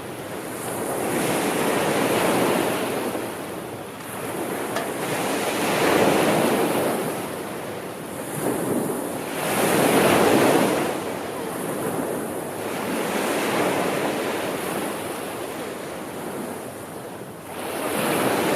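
Sea waves washing in and drawing back, each surge swelling and fading about every four seconds.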